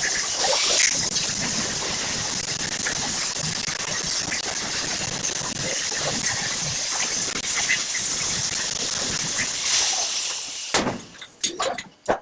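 Electric arc welding: a steady crackling sizzle that cuts off abruptly about eleven seconds in, followed by a few short separate sounds.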